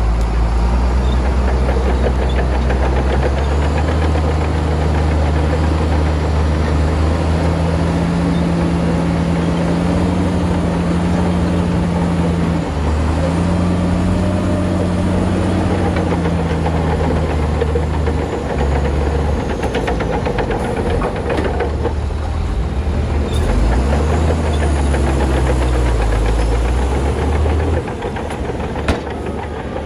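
Shantui bulldozer's heavy diesel engine working under load, its pitch rising and falling as it pushes, over a steady clatter from the machine. It eases off a little near the end.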